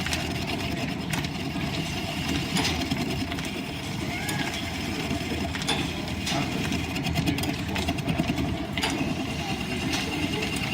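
Line-shaft-driven wood lathe with its overhead shafting and belts running steadily: a continuous rumble with a faint steady whine and sharp clicks every second or two.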